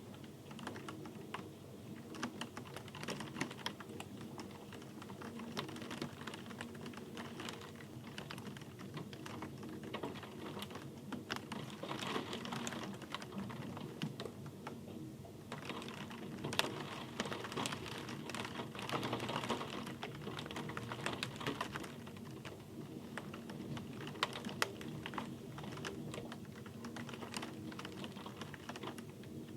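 Rain falling, drops pattering on a hard surface in dense, irregular ticks, growing heavier for a few seconds twice in the middle.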